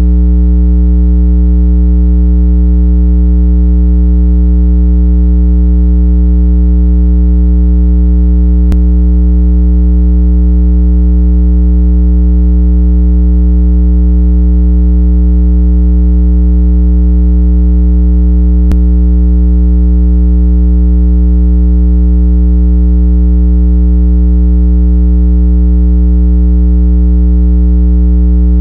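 Steady, loud, low electronic water-eject tone with a stack of overtones, played to vibrate a speaker and drive trapped water out of earbuds. Two faint clicks come about nine and nineteen seconds in.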